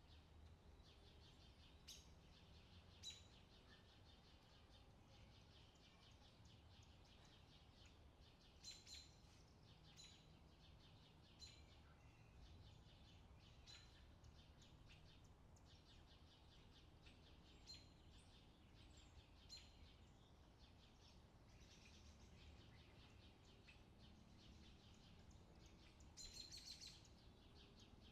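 Faint summer outdoor ambience: scattered bird chirps and short calls over a low, steady background hum, with a brief flurry of calls near the end.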